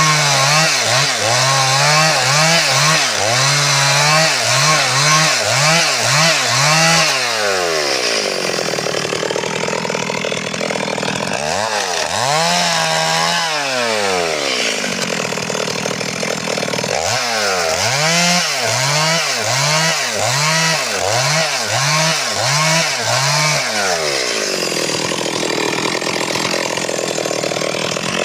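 Stihl MS 382 two-stroke chainsaw running loud, its engine pitch rising and falling over and over in quick cycles, with stretches of steady high revs in between.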